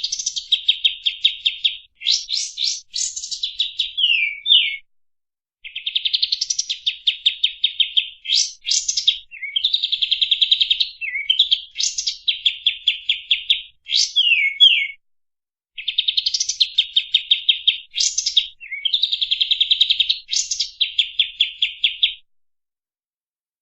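Kapas tembak bird singing its rapid-fire song: fast, tightly spaced trills in phrases of one to three seconds, broken by brief pauses and short rising and falling sweeps. The song stops about a second and a half before the end.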